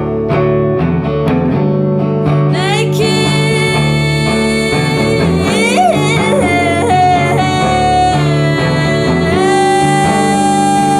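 A band playing a song with guitars and bass, with wordless singing that slides between notes and holds long notes near the middle and end.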